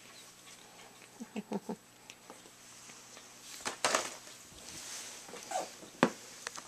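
Cats chewing and crunching freeze-dried chicken treats, in a few short, irregular bursts with a sharp click about six seconds in.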